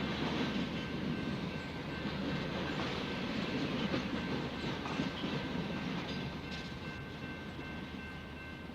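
Freight train rolling past, a steady rumble of railcars with wheels knocking over rail joints. A few thin, steady high-pitched tones come in past halfway, and the sound eases off gradually toward the end.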